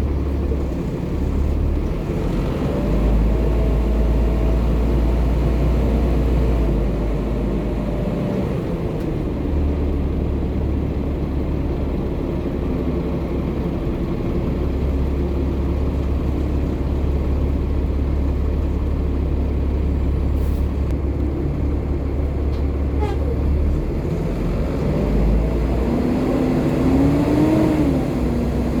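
Volvo B7TL double-decker bus's six-cylinder diesel engine and driveline running with a steady low rumble. A whine drops about a third of the way in and climbs again near the end.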